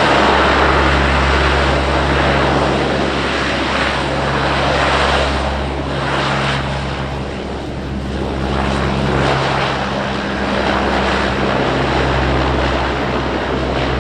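Airplane engines running loud and steady close by, a dense roar over a low, steady hum, dipping slightly about halfway through.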